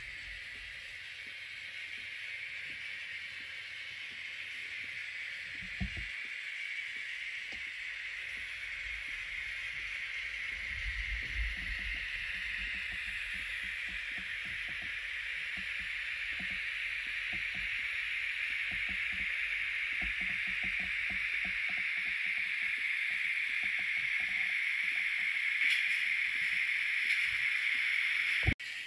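A train running on the rails: a steady hissing rumble that grows slowly louder throughout, with faint ticks over it, then cuts off suddenly near the end.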